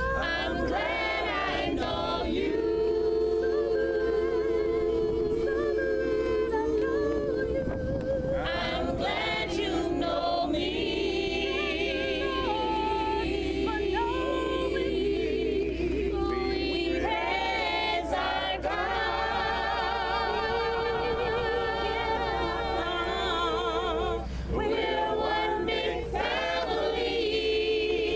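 A group of voices singing a gospel song a cappella, with no instruments, holding long wavering notes.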